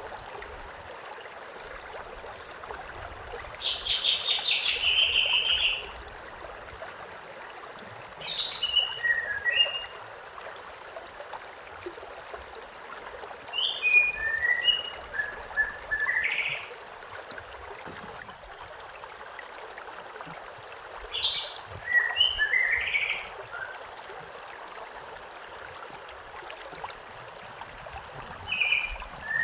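A songbird singing five short phrases of quick chirps and whistled notes, one about every six seconds, over the steady rush of a stream.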